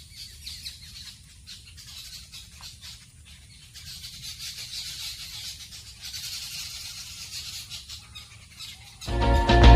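High-pitched chirring and hissing of animals outdoors, rising in level about halfway through. Loud music with guitar cuts in abruptly near the end.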